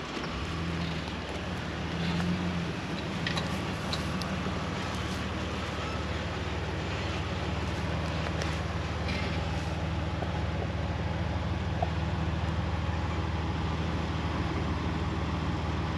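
Jeep engine running steadily at low trail speed, with scattered clicks and rattles over the top.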